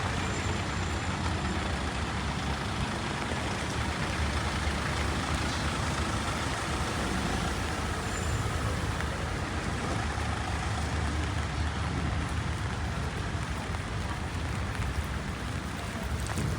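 Steady low rumble of road traffic in a rainy city street, with an even hiss over it.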